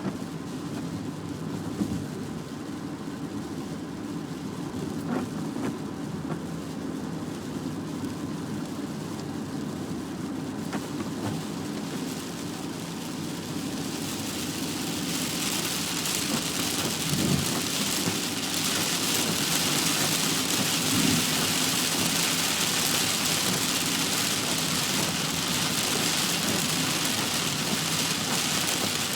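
Heavy rain on a moving car over a steady low rumble of road noise. About halfway through, the hiss of rain and tyre spray grows much louder.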